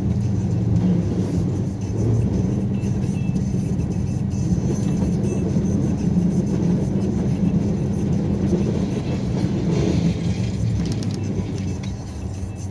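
Snowplow truck's engine running steadily with a low drone while plowing.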